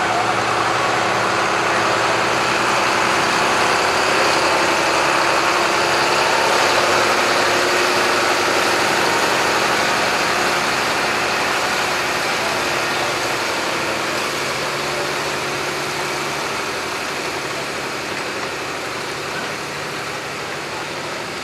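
Farm tractor engine running steadily, growing slowly fainter over the last several seconds.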